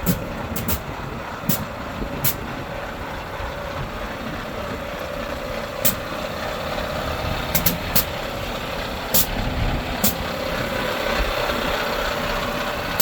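Diesel engine of an IVECO Stralis AS440S46 truck running at idle, a steady rumble with a held whine, broken by sharp clicks every second or two.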